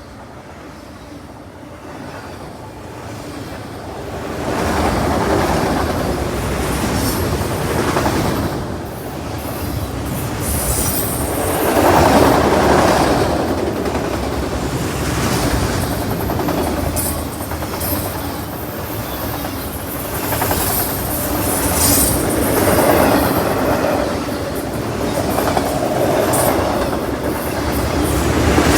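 A train passing close by: the rumble of its cars and wheels on the rails comes up about four seconds in and stays loud, swelling and fading in waves, with clicking over the rail joints and high wheel squeal.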